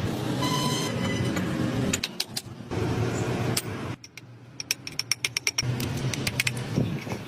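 A motor hums steadily, broken in the middle by a few seconds of sharp clicks and knocks, then hums again.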